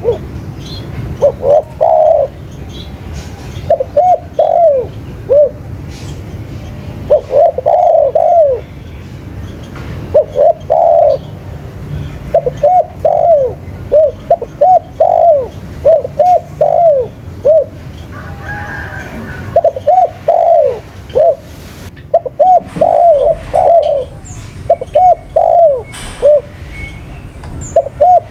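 Spotted dove (tekukur) cooing in repeated phrases of three to five arched notes, about one phrase every two seconds, over a steady low rumble.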